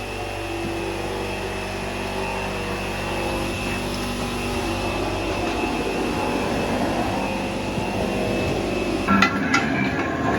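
Steady machine drone with several held tones over a noisy hum. About nine seconds in it cuts abruptly to music.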